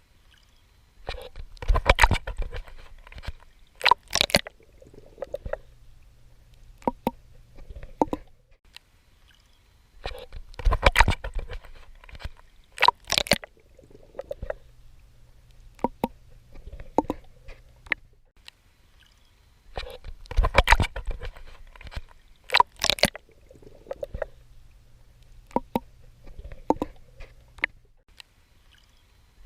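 Water splashing and sloshing from a swimmer's strokes at the ocean surface. The splashes come in clusters of sharp bursts, with quieter stretches between them, and the pattern repeats about every nine to ten seconds.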